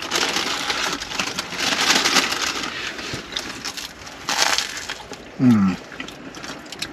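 Crusty baguette of a roast pork banh mi crackling and crunching as it is bitten and chewed, with a short falling "mmm" of approval about five and a half seconds in.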